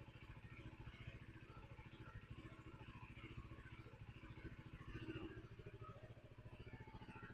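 UM RS 125's single-cylinder 125 cc engine idling quietly with an even low pulsing, swelling slightly about five seconds in.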